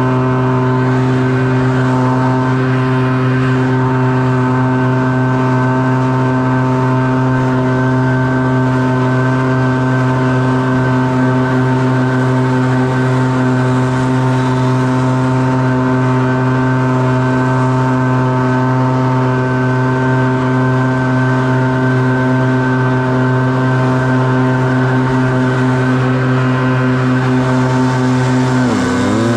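A small engine, likely a backpack leaf blower, run up to full throttle and held there at a steady high pitch. Near the end the throttle is let off briefly and the pitch drops, then it revs straight back up.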